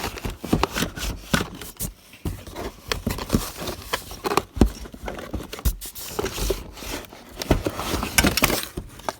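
Box packaging being handled while a framing nail gun is unpacked: rustling and scraping with a series of sharp knocks.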